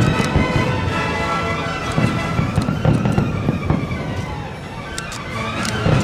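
Aerial fireworks going off, many sharp bangs and crackles in quick succession, with music playing at the same time.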